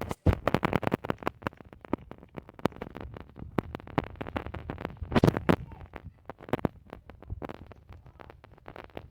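Irregular clicking, crackling and scratching noises, dense and uneven, a little louder about five seconds in.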